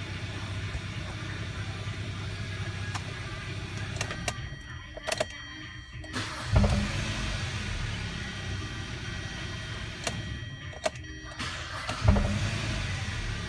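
2011 Hyundai Sonata engine running steadily after a cheap repair of a spun number-one rod bearing, a new bearing fitted on a still-scratched journal. Twice the sound drops away briefly and then comes back with a sudden loud surge.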